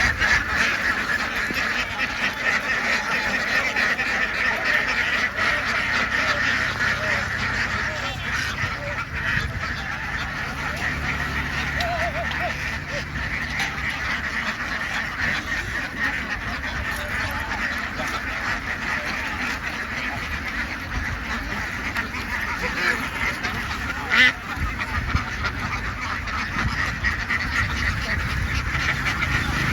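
A large flock of ducks quacking all together in a dense, unbroken din. A single sharp knock cuts through about 24 seconds in.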